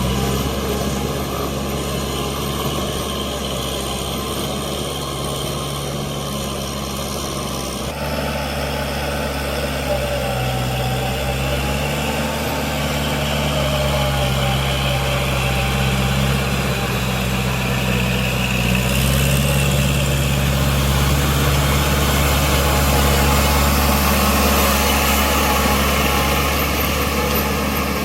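Kubota L5018 tractor's diesel engine running steadily at a constant pitch. The sound shifts abruptly about eight seconds in.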